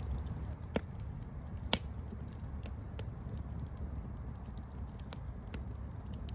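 Campfire crackling: irregular sharp pops and snaps over a steady low rumble of burning, with two louder pops about a second in and near two seconds in.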